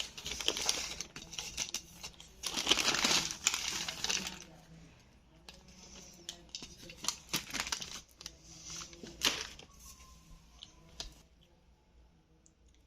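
Plastic chip packet crinkling as it is handled, in bursts with scattered clicks, dying down after about eleven seconds.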